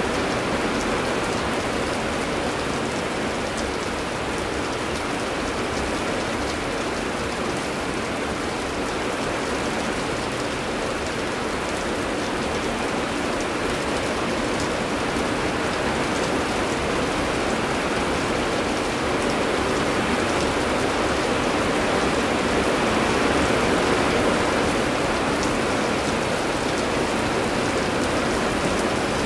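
Steady heavy rain: an even hiss with faint scattered drop ticks.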